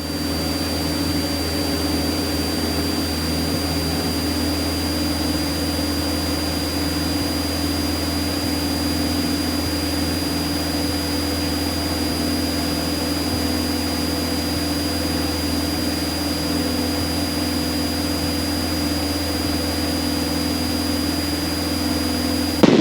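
Light aircraft's engine and propeller droning steadily at constant power, heard inside the cockpit, with a thin steady high whine over it.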